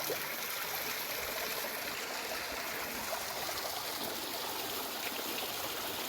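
Running water, a steady trickling stream.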